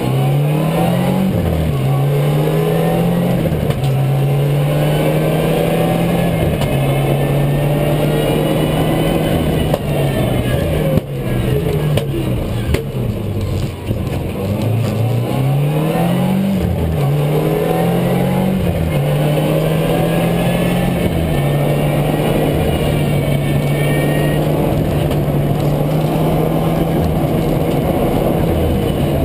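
Rally car engine heard from inside the cabin, driven hard at high revs, the revs dipping and climbing again several times, over road and tyre noise.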